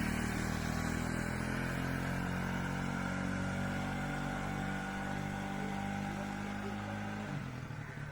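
Honda CD 70 motorcycle's small single-cylinder four-stroke engine running at a steady speed, then dropping away about seven seconds in.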